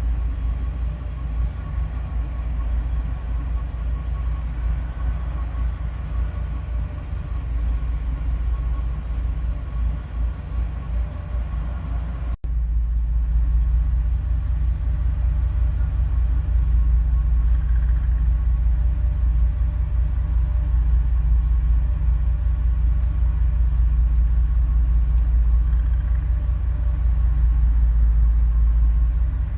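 Steady low rumble like a running vehicle engine, broken off briefly about twelve seconds in and a little louder afterwards.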